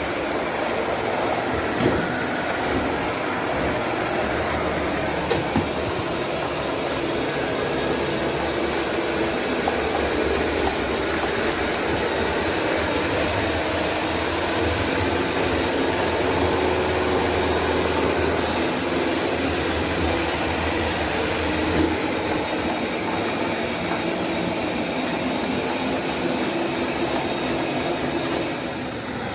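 Shark AI Ultra robot vacuum running with a steady mechanical whir as it manoeuvres while struggling to dock itself, with a few small clicks.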